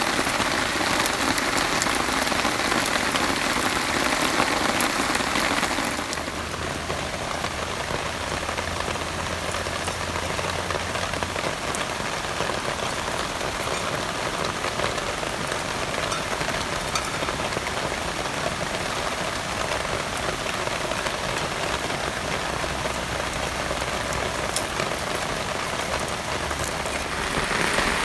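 Heavy rain falling steadily, a dense hiss of drops. It turns a little quieter about six seconds in and grows louder again near the end.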